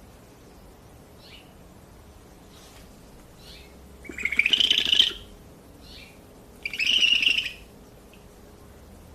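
Owl giving two loud, harsh, rasping screeches about four and seven seconds in, each under a second long. Between them, fainter short high calls repeat every couple of seconds.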